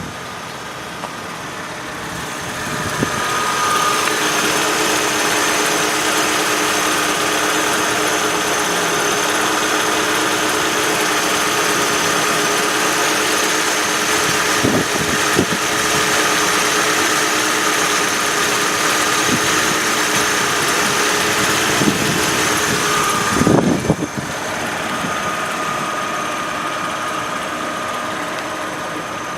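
Mercedes-Benz ML 320's 3.2-litre 18-valve V6 idling steadily, heard close up. It grows louder a few seconds in. About 23 seconds in there is a sharp knock, and the sound is somewhat quieter afterwards.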